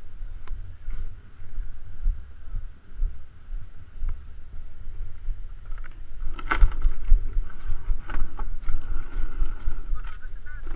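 A 100cc two-stroke kart engine running on the track with a high, thin whine, growing louder about six seconds in with a sharp burst as it comes closer. Wind buffets the microphone throughout.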